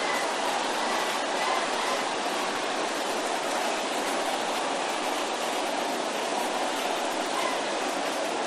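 A large congregation praying aloud all at once, many voices blending into a steady roar with no single voice standing out.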